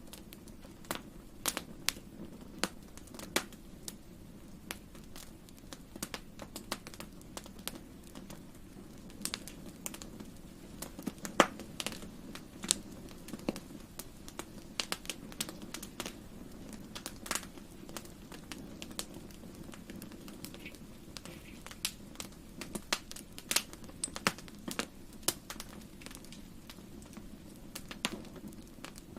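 Wood fire crackling in a fireplace: irregular sharp pops and snaps, one louder pop about eleven seconds in, over a low steady rumble of the flames.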